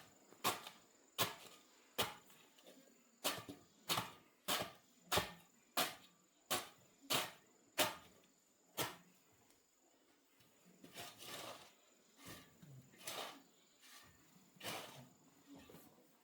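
A series of about a dozen sharp knocks, roughly one every two-thirds of a second, for the first nine seconds, then softer scraping and rubbing sounds.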